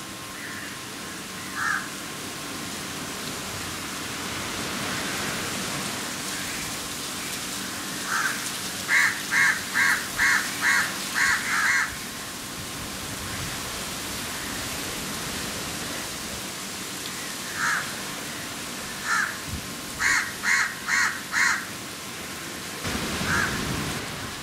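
A bird calls in two runs of about six short, harsh calls each, roughly two or three a second, plus a few single calls, over a steady rushing hiss. A brief louder rush comes near the end.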